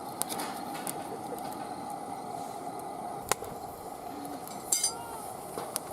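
Wood fire crackling in a fire pit, with scattered small crackles and one sharp pop about three seconds in. A few short bird calls come through in the background.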